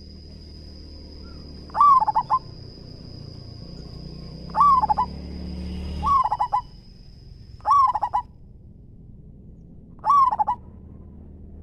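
Zebra dove (perkutut) cooing: five short phrases of quick, rolling coos, a couple of seconds apart. A steady thin high-pitched whine sounds behind the first part and stops about two-thirds of the way through.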